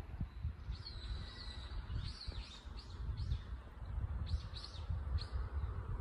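Small birds chirping: a quick run of short, high calls starting about a second in and carrying on, over a low, uneven rumble.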